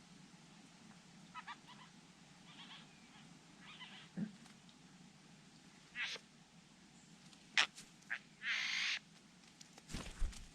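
Wild birds calling in scattered short chirps and clicks, with one harsh buzzing call of about half a second about three-quarters of the way through. A dull low thump comes near the end.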